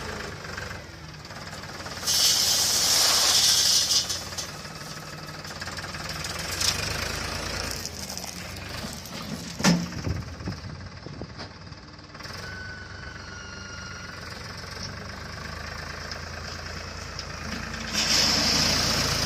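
Engine of a tractor-mounted machine running steadily, with a loud hiss about two seconds in lasting a couple of seconds and another near the end, and a single sharp knock about midway.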